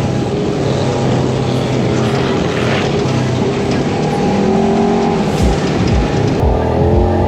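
Side-by-side UTV engine running under way on a dirt trail, its pitch rising and falling with the throttle about halfway through.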